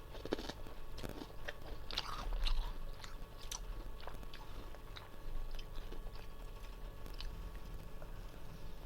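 Freezer frost being bitten and chewed: irregular crunching, loudest about two and a half seconds in, then thinning to sparse small crackles.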